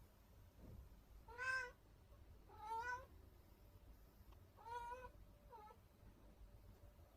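Domestic cat meowing: three short meows a second or two apart, then a brief fainter one right after the third.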